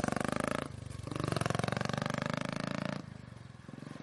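Royal Enfield single-cylinder engine running through a Red Rooster free-flow exhaust, a fast even thudding of exhaust pulses. It eases off briefly about a second in and drops in level in the last second.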